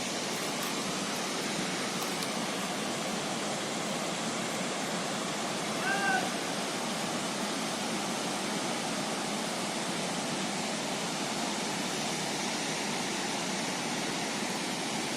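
Kuntala waterfall's water rushing steadily, with a short high-pitched call about six seconds in.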